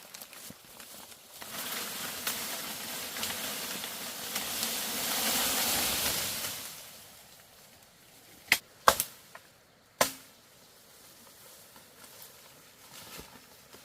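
A long swell of rustling leaves that builds for several seconds and then fades, followed by three sharp blade chops into bamboo about two-thirds of the way through.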